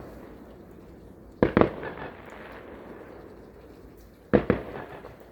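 Fireworks exploding: two pairs of sharp bangs, the first about a second and a half in and the second near the end, each trailing off briefly.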